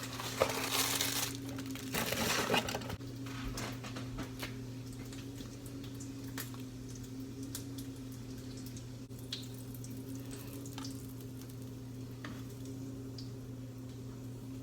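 Cracker packaging rustling and crinkling for the first few seconds as crackers are taken out, then a steady low hum with a few faint clicks and pops.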